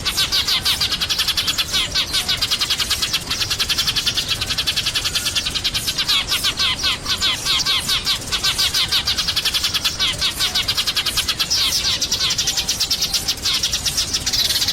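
A flock of sparrows chirping continuously: many rapid, overlapping short chirps.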